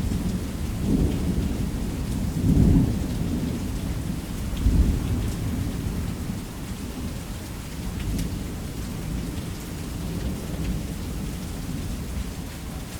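Thunder rumbling over steady heavy rain. The rumble swells in rolls, loudest about two and a half and five seconds in, then dies away, leaving the rain.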